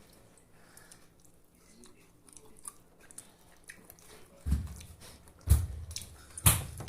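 Close-up eating sounds of a person biting into and chewing a chicken leg piece: small wet smacks and clicks, then three loud thumps about a second apart in the second half.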